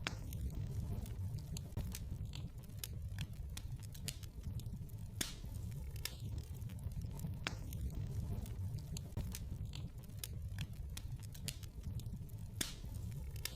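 Wood fire crackling in a fireplace: irregular snaps and pops over a low, steady rumble of the flames, with a few louder pops about five, seven and a half and twelve and a half seconds in.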